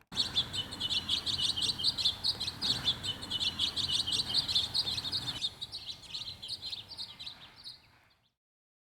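Small birds chirping in a rapid run of quick, high notes that grows fainter about five seconds in and fades out near the end.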